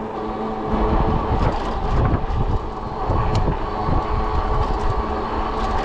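Fat-tire e-bike riding noise: a steady hum from the motor, with a heavy low rumble of wind on the microphone and tire noise coming in about a second in, plus a few light clicks and rattles.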